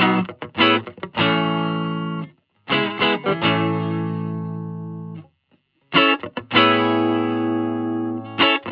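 G&L Legacy USA electric guitar through a Hiwatt Custom 20 2x10 valve combo, playing short choppy chord stabs, then chords left to ring out, each cut off abruptly. The tone has mild overdrive.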